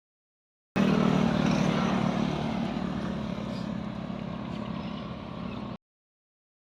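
A motor vehicle engine running steadily with a low hum, slowly getting quieter; it starts and cuts off abruptly.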